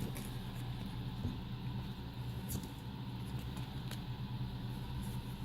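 Steady low mechanical hum, with a few faint ticks, about two and a half and four seconds in.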